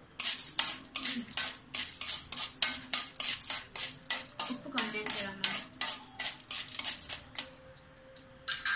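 Metal spoon stirring unpopped corn kernels in a hot cheenachatti, scraping and clinking against the pan about four times a second, stopping near the end. The kernels are being coated in ghee and have not begun to pop.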